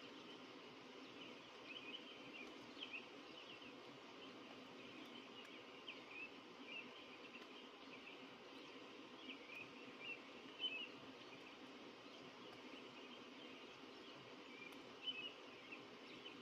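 Birds chirping faintly: short, high chirps come irregularly, with the clearest ones about ten seconds in and near the end, over a steady background hiss.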